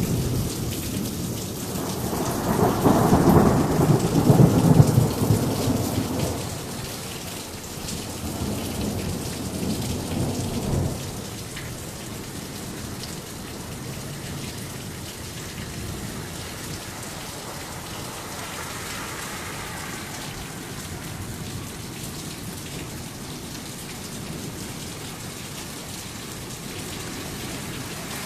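Heavy rain falling steadily, with a long roll of thunder rumbling loudest from about two to six seconds in and a second, weaker rumble near ten seconds; after that only the steady rain is left.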